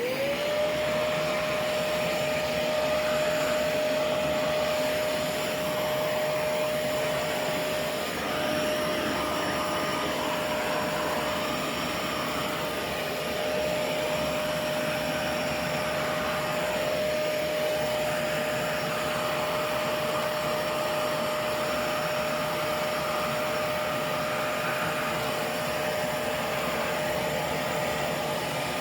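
Vacuum cleaner used as a blower to blow dust out of a computer, its motor spinning up at the start into a steady whine and rushing air.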